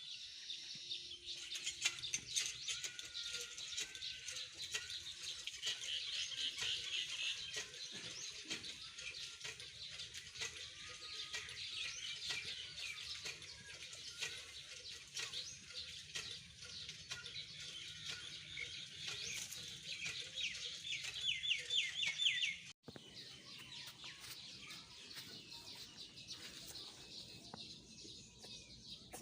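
Many small birds chirping and twittering continuously, in quick high trills, with a brief dropout in the sound near the end.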